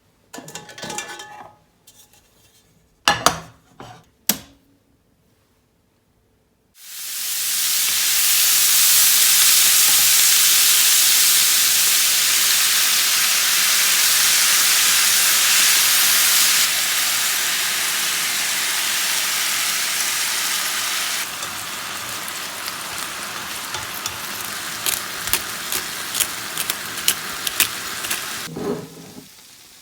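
A few clinks of kitchenware, then about seven seconds in food hits a hot oiled pan and starts frying with a sudden loud sizzle. The sizzle goes on steadily, with sharp spitting crackles in the last several seconds, until it drops away near the end.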